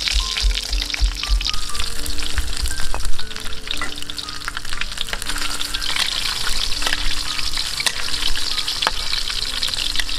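Food sizzling in hot oil in a wok, with a metal spatula scraping and clicking against the pan as it is stirred. A few low thuds of a pestle in a stone mortar sound in the first couple of seconds.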